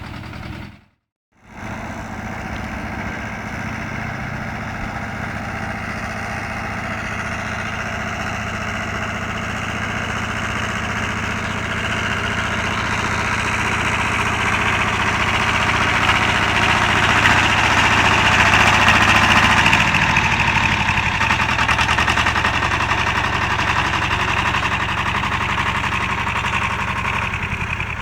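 Engine of a BJR Falcon 40 articulated tractor running steadily, cut off by a brief gap of silence about a second in, then growing gradually louder toward the middle and easing off a little near the end.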